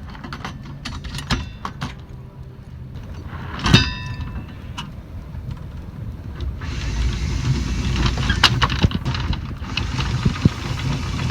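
Sailboat's inboard engine running low and steady, with scattered clicks and one ringing metallic clank about four seconds in. About two-thirds through, a louder hiss suddenly joins the engine sound.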